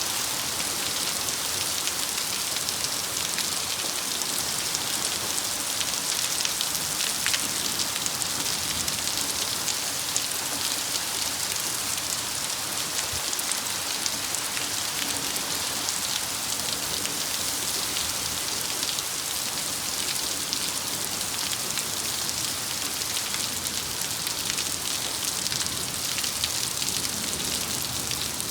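Steady downpour of thunderstorm rain: an even hiss with scattered ticks of drops striking.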